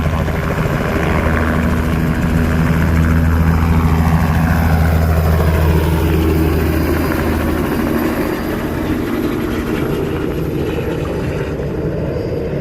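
Helicopter running close by, rotor and engine noise loud and steady, loudest around the middle; its deep low tones drop away after about seven and a half seconds and the whole sound slowly eases off.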